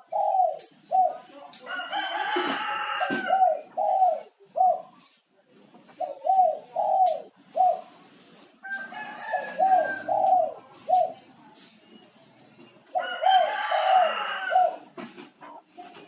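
Spotted dove (derkuku) cooing in repeated phrases of short, arched notes, a burst every few seconds: a bird calling persistently. A rooster crows in the background twice, about two seconds in and again near the end.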